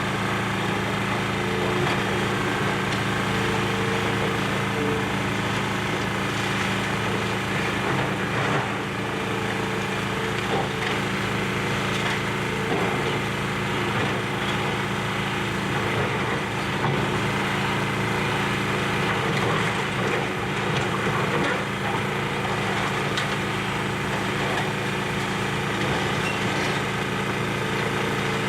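Excavator engine running steadily during building demolition, with scattered cracking and splintering as debris is torn apart and breaks.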